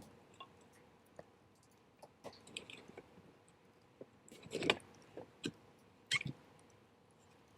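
Wood fire crackling, with irregular sharp pops and snaps, the loudest cluster about four and a half seconds in and another near six seconds.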